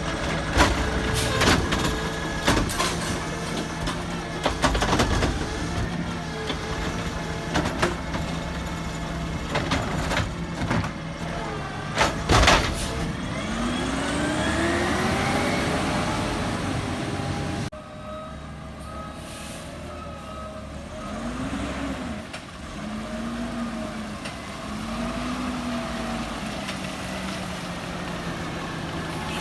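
CNG Peterbilt 320 garbage truck working, its engine running under repeated clanks and bangs from the collection equipment. About halfway through the engine revs up with a rising whine, then the sound cuts off suddenly, followed by a few short revs.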